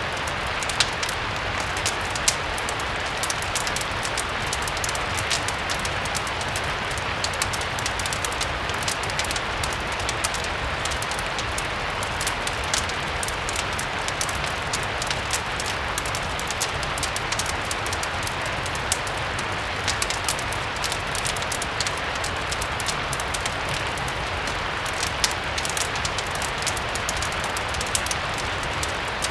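Steady rain mixed with a crackling fireplace: an even rain hiss with frequent small, sharp crackles and ticks scattered through it.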